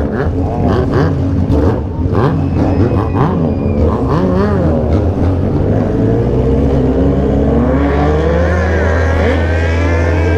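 Several remapped motorcycles with 3-inch aftermarket exhausts revving and accelerating together. Their engine pitches rise and fall against one another, then climb steadily together over the last few seconds.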